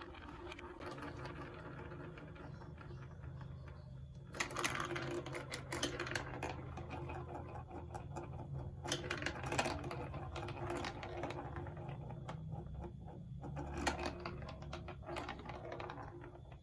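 Marbles rolling and rattling through a plastic marble run track: a continuous rapid clatter of small clicks, with louder bursts about four, nine and fourteen seconds in.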